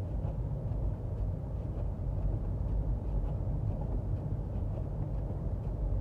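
Steady low rumble of road and tyre noise heard inside the cabin of a front-wheel-drive Toyota Prius driving on a road that is snowing over and has been salted.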